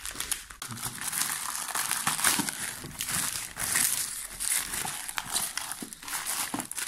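Parcel packaging crinkling, crackling and tearing as it is handled and pulled at by hand, a stubborn package being worked open.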